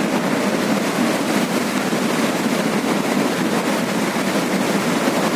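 Floodwater of the swollen Teesta River rushing past as a loud, steady wash of noise.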